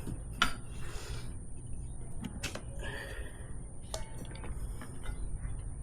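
A few sharp clicks and light knocks from hand work on a motorcycle wheel during a tire change, over a steady low rumble.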